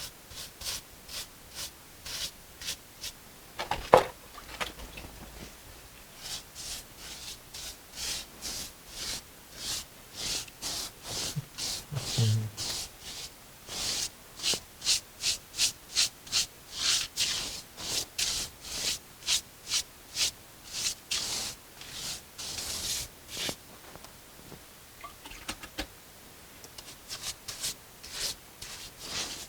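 Mason's brush scrubbing over fresh mortar on a brick wall in short, even strokes, roughly two a second, texturing the patch. A single sharp knock about four seconds in.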